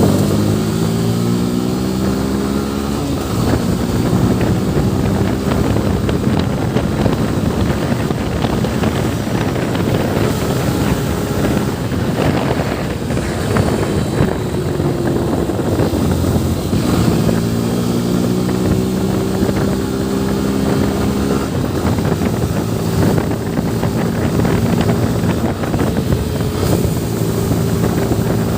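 Yamaha FZ V3's single-cylinder engine running on the move, rising in pitch as it accelerates and dropping as it shifts up a gear, twice: right at the start and again about two-thirds of the way through. Wind rushes over the microphone.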